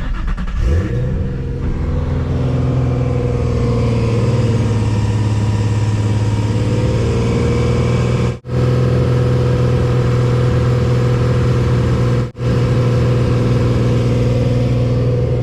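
Car engine starting up and running steadily, its pitch rising during the first second or two, then holding; it cuts out very briefly twice.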